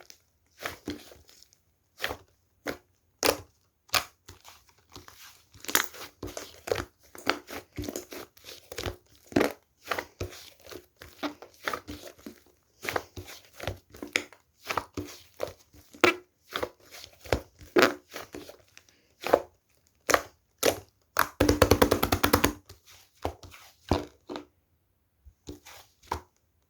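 Cloud slime being squished and stretched by hand, giving irregular sticky clicks and crackles. Late on, a dense run of rapid crackling lasts about a second.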